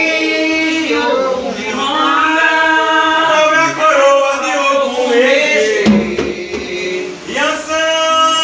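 Singing: a slow chant with long, held notes that slide in pitch, with a short break about six seconds in before the voice picks up again.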